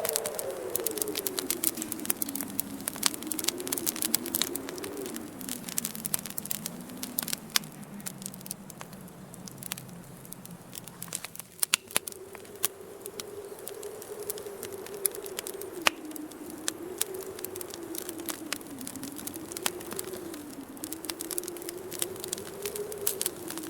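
Wood fire crackling and popping in a fireplace, with sharp pops scattered throughout. Behind it a wind whistles with a slowly wavering pitch that sinks through the first half, then jumps back up abruptly about halfway through.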